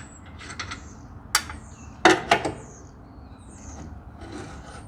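Hand tools knocking and scraping on skid-steer engine parts during disassembly: one sharp knock about a second and a half in, two more close together about two seconds in, with light rubbing between.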